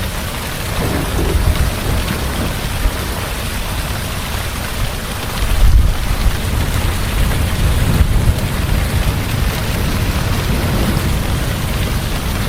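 Heavy rain falling steadily, with low rolls of thunder rumbling underneath; the loudest roll swells up about halfway through.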